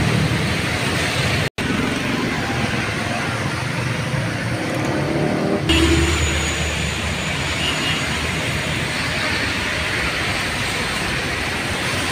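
Steady hiss of heavy rain mixed with road traffic and bus engines. The sound drops out for an instant about a second and a half in. Near the middle it changes abruptly, and a low engine rumble comes up.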